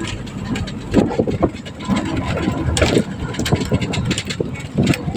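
Noise of riding in a vehicle: a motor running with rattling and clattering, and voices in the background.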